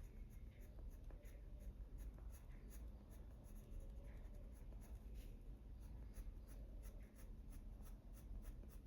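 Coloured pencil scratching on paper in quick, short flicking strokes, faint, at a steady few strokes a second.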